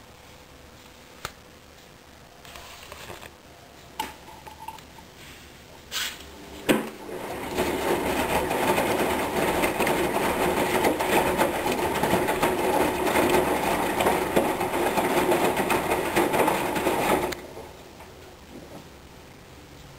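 Hoover DYN 10124DP washing machine in its second rinse: a few sharp clicks, then a loud, steady rushing that runs for about ten seconds and cuts off suddenly.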